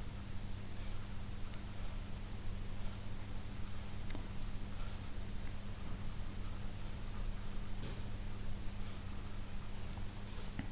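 2B graphite pencil scratching on sketchbook paper in quick, irregular sketching strokes, over a steady low hum.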